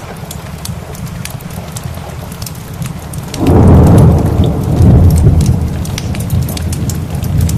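Steady rain with scattered drop ticks; about three and a half seconds in a loud thunder rumble breaks in suddenly and slowly dies away over the following seconds.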